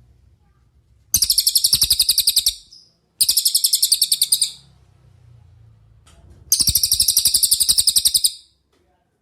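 Cililin songbird singing: three loud, high, rapid trills of about ten evenly repeated notes a second, each lasting a second or two, with short pauses between them.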